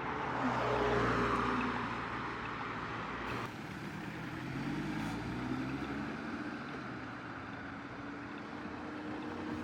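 Sports car engines running at low revs as cars drive slowly past, loudest about a second in. Around the middle an engine's pitch rises and falls gently.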